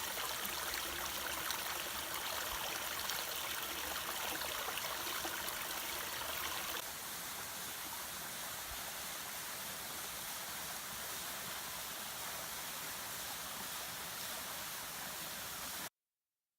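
Waterfall water rushing steadily, stepping a little quieter about seven seconds in, then cutting off abruptly near the end.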